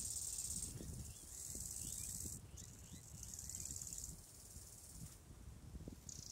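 Insects buzzing, a high-pitched shrill in runs of about a second with short breaks, stopping about four seconds in and starting again near the end. Faint bird chirps and a low rumble of wind on the microphone sit underneath.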